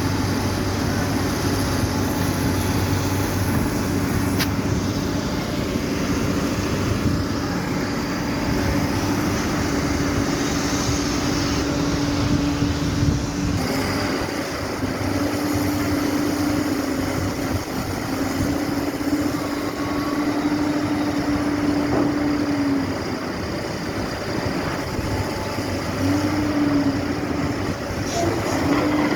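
Steady engine or machinery drone with a hum that breaks off and comes back several times; the sound changes abruptly about halfway through.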